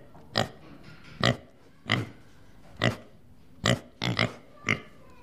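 Domestic pigs grunting: a series of short grunts, about one a second, with a quick pair of grunts a little past the middle.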